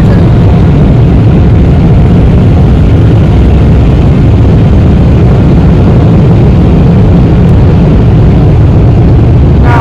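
Automatic car wash air dryers blasting air over the truck, a loud, steady noise without a break, heard from inside the truck's cab.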